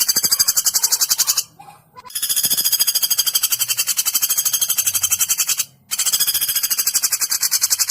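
Woodpecker calling in a rapid rattling trill of sharp, high notes, about nine a second, in long runs of three to four seconds with brief breaks, played as a masteran tutor recording for songbirds.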